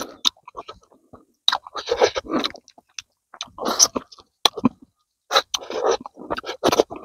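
Close-up chewing and biting: a man eating cooked rabbit and rice by hand, heard as short bursts of chewing with brief pauses between.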